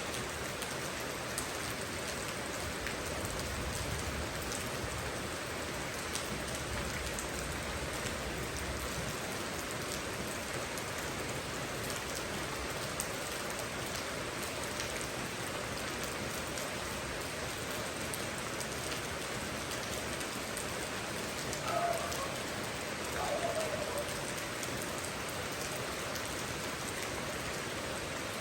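Steady rain falling, a continuous hiss with scattered sharper drop ticks. About three-quarters of the way through, two short pitched calls a second and a half apart stand out over the rain.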